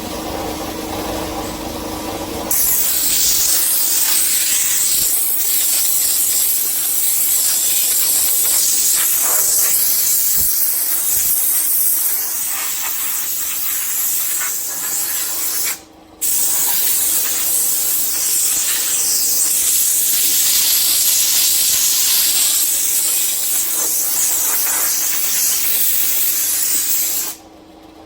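Compressed-air blow gun hissing loudly in long blasts, blowing leaves and dirt off the truck, with a short break about halfway through. Under it, a steady hum from the running air compressor.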